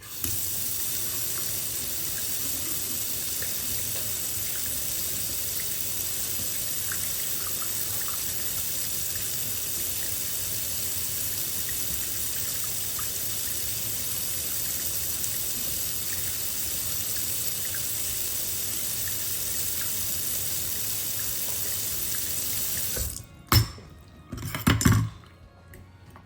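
Water running steadily from a tap into a sink, then shut off abruptly, followed by a few loud knocks near the end.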